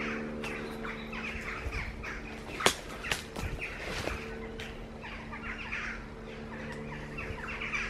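Small birds chirping and singing, with a steady low hum underneath and one sharp click about two and a half seconds in.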